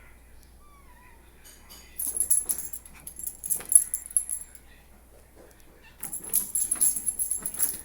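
A pet's collar jingling and rattling in rapid, irregular clicks as the animals scramble about. It comes in two loud bursts, about two seconds in and again from about six seconds, with a faint short squeak about a second in.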